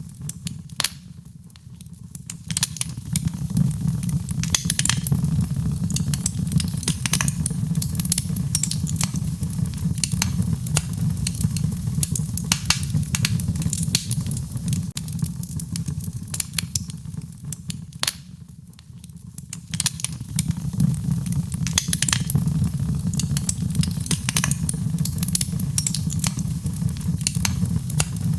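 Wood fire in a fireplace crackling and popping, with frequent sharp snaps over a steady low rumble of the flames. The sound drops off briefly twice, about a second in and again around eighteen seconds in.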